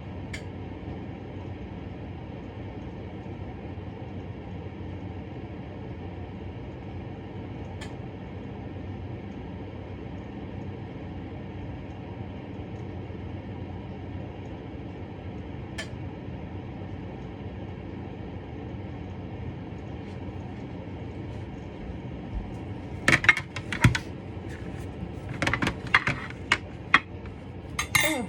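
Steady low background hum with a few single faint clicks, then near the end a run of sharp clinks and knocks of dishes and utensils being handled.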